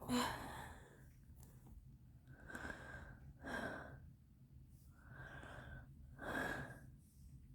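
A person breathing close to the microphone: a sharp breath or sigh at the start, then two in-and-out breaths.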